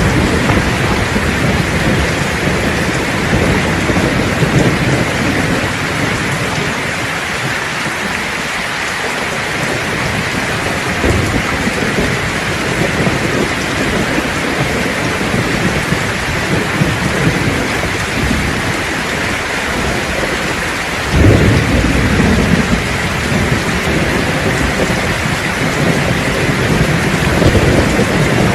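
Steady heavy rain hiss under rolling thunder, with a sharper thunderclap about three-quarters of the way through that rumbles on for several seconds.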